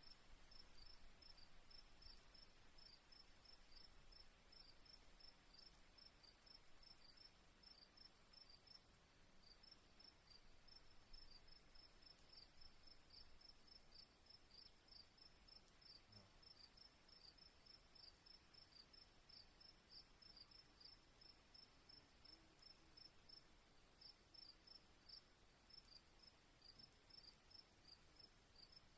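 Faint crickets chirping: a steady high trill with a run of short, evenly spaced chirps over it, about three a second, that pauses briefly twice.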